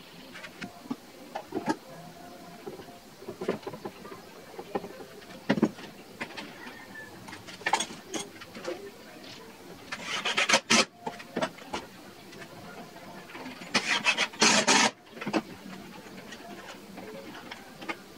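Workshop hand work on wooden pieces: scattered knocks and clicks as they are handled, with two short rasping, rubbing bursts about ten and fourteen seconds in.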